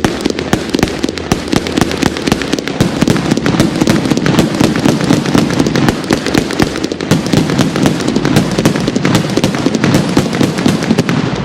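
Fireworks crackling in a fast, dense run of sharp pops for about eleven seconds, cutting off suddenly near the end.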